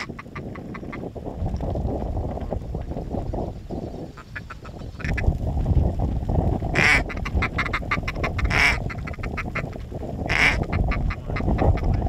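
Duck quacking: rapid runs of short quacks, with three loud, longer quacks about seven, nine and ten and a half seconds in. Wind rumble on the microphone runs underneath.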